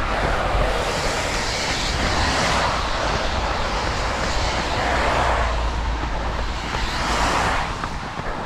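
Steady rushing noise over a heavy low rumble, swelling a few times: wind and pouring rain on a running racer's camera microphone.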